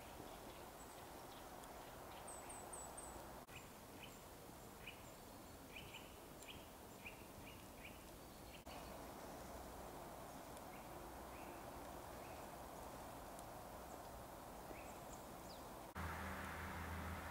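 Faint outdoor background hiss with small birds calling: scattered short chirps and a quick run of four high, thin notes. Near the end the background changes suddenly to a low steady hum.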